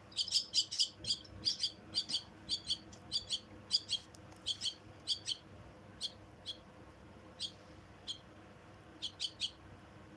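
Myna chicks chirping to beg for food: short high chirps in quick runs of two or three, at first about two a second, then sparser and stopping near the end.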